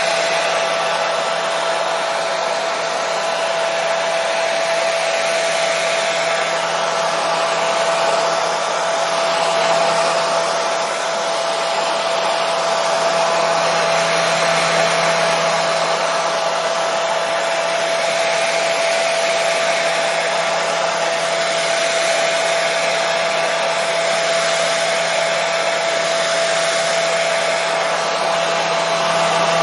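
Hair dryer running steadily: an even airy rush with a constant motor whine, used as white noise to lull a baby to sleep.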